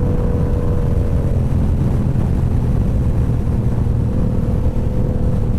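Motorcycle engine running at a steady, even pitch while riding, with wind rushing over the microphone.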